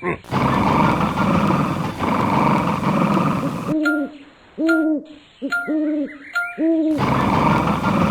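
An owl hooting four times in about three seconds, from about halfway in, each hoot a short call that rises and falls in pitch. Before and after the hoots there is a steady rushing noise.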